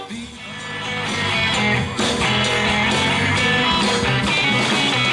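Live band playing a guitar-led instrumental passage with no vocals; the music dips briefly right at the start, then comes back in about half a second in.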